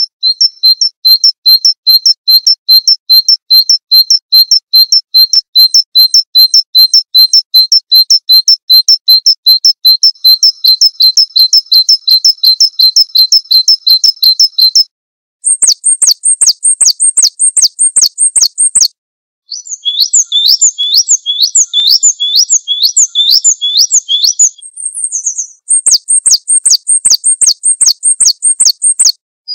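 Spliced recordings of small songbirds' calls: a fast run of identical sharp chirps, about three a second, for some fifteen seconds. After a short break come several shorter runs of repeated notes, some higher and some lower, each block starting and stopping abruptly.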